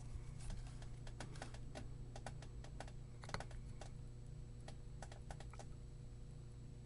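Faint, irregular light clicks and ticks from soldering work on a circuit board, over a steady low hum.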